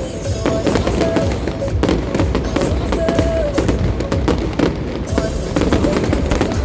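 Fireworks going off in quick succession: many bangs and crackles over a dense low rumble, with music playing along with them.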